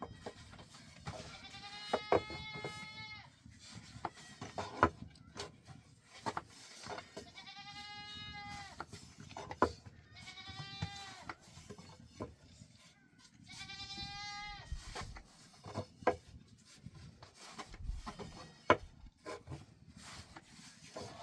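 A goat bleating four times, each call about a second long with a high, wavering pitch, among scattered sharp clicks and knocks.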